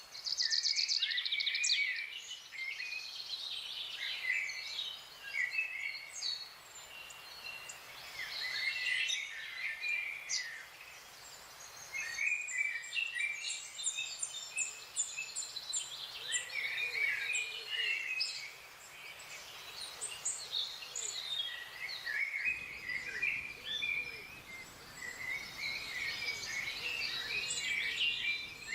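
Several wild songbirds singing and calling together in overlapping chirps and warbled phrases, with a fast trill about a second in.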